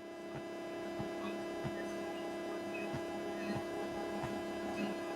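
Steady electrical hum, with faint irregular ticks underneath.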